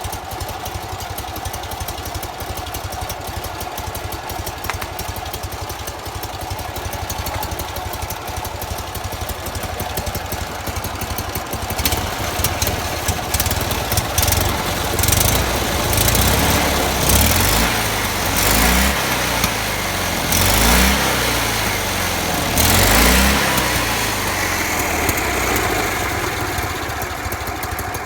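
Polski Fiat 126p 650 air-cooled two-cylinder engine idling steadily, then revved up and down in a series of short blips about halfway through before settling back to idle.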